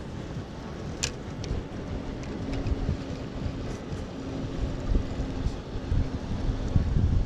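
Wind buffeting the microphone over the rush of river water, with a few light clicks, the sharpest about a second in. A faint steady hum runs for a few seconds in the middle.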